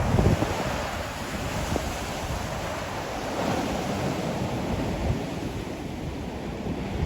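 Ocean surf breaking and washing on the shore, with wind buffeting the microphone in low rumbles that are strongest at the start.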